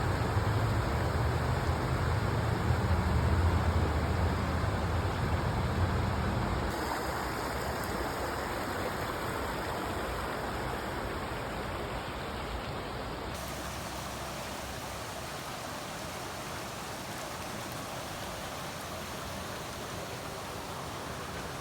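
Floodwater rushing steadily, a continuous hiss of running water. For the first several seconds a heavy low rumble lies under it, and the sound shifts abruptly twice.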